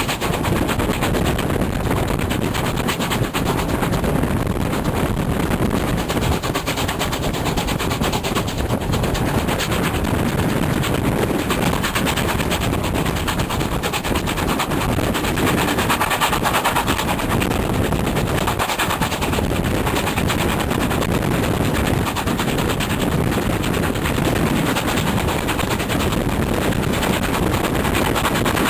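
Heavy wind buffeting the microphone, a steady crackling rumble with no clear rhythm.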